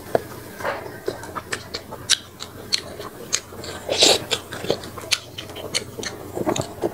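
Close-miked chewing and lip-smacking of a mouthful of boiled snakehead fish, irregular wet clicks throughout, with a louder burst about four seconds in as a spoonful of fish goes into the mouth.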